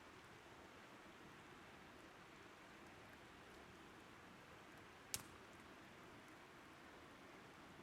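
Faint steady rush of a nearby river with a campfire burning, and one sharp crackle of burning wood about five seconds in.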